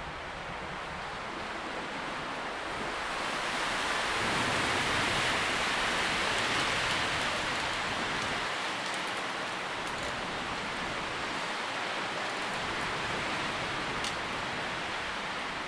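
Wind rustling through tree leaves, a steady hiss that swells in a gust about three seconds in and eases slowly, with a few faint ticks.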